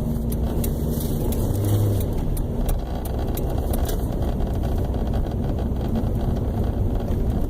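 Steady road and engine noise heard from inside a moving vehicle, an even rumble with no changes.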